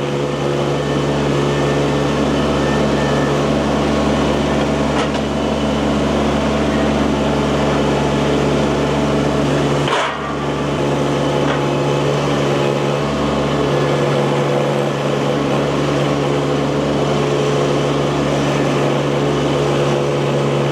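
Small engine running steadily at a constant speed, with a sharp knock about five seconds in and a brief break in the sound about ten seconds in.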